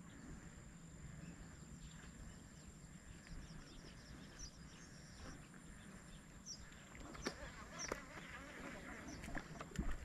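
Quiet outdoor ambience with a few faint, short, high bird chirps over a steady thin high tone, and some light clicks near the end.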